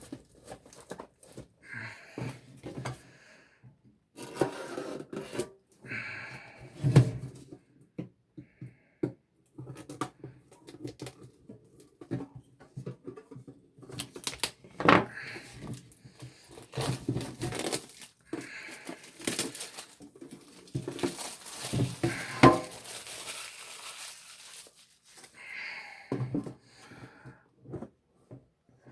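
Hands tearing and rustling product packaging, shrink-wrap and cardboard, while opening a sealed trading-card collection box, with irregular clicks and handling knocks and a longer tearing stretch about three-quarters of the way through.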